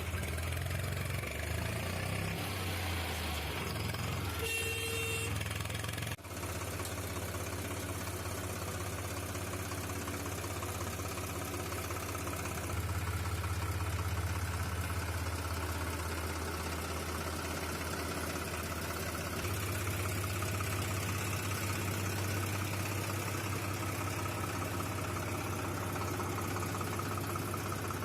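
Tractor engine running steadily, with a short beep about five seconds in.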